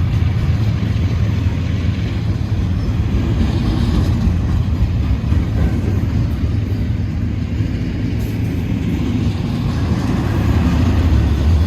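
CN intermodal stack-car freight train rolling past: a steady, loud low rumble.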